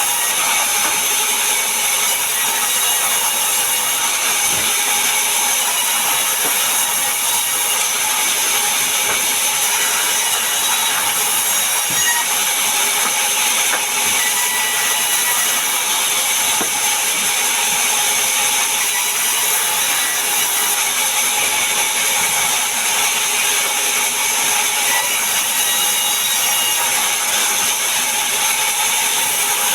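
Power saw cutting mahogany wood: a steady, loud, high-pitched hiss that runs without a break, with a few faint knocks.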